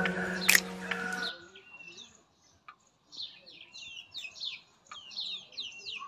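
Background music stops about a second in, then small birds chirping in quick, repeated falling calls, with a couple of faint clicks.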